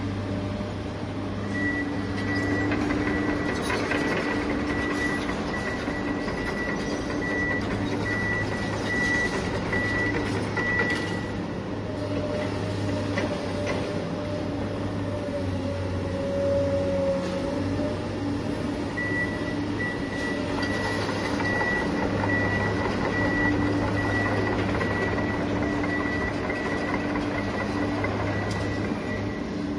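Heavy truck engine running steadily, with a repeating high beep like a reversing alarm for the first ten seconds or so and again through the last ten. The toy is pushed by hand and has no motor, so this is an added construction-vehicle sound effect.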